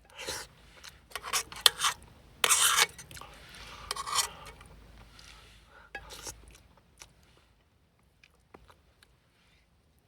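Eating utensils scraping and clinking in a dish in several short strokes over the first few seconds, then a few faint clicks.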